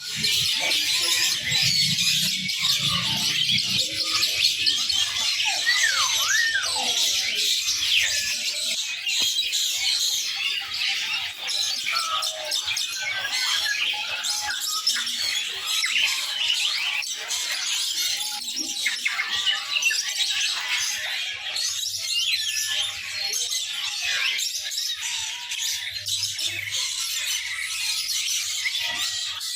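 Many small songbirds chirping and squawking at once, a dense, unbroken chatter of overlapping high calls, with a few clearer whistled glides, rising and falling, about six seconds in.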